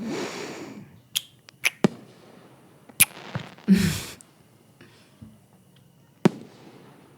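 Scattered sharp firework pops and cracks, about five spread over several seconds, between soft breaths and a brief hummed sound from a woman.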